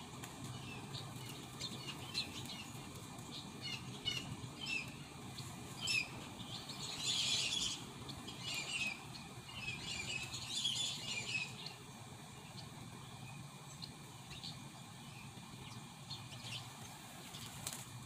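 Songbirds chirping: short high chirps repeated throughout, with two busier stretches of rapid chirping about midway, over a low steady background noise.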